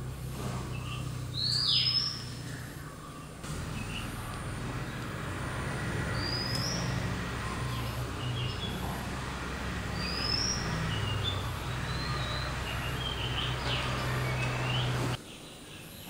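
Birds calling: a loud downward-sweeping call about two seconds in, then short rising chirps and scattered calls, over a steady low hum.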